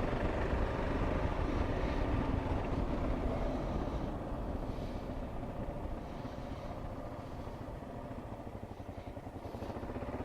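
Kawasaki KLR 650's single-cylinder engine running while riding, heard from the helmet with wind noise. It eases off in the middle and picks up again near the end.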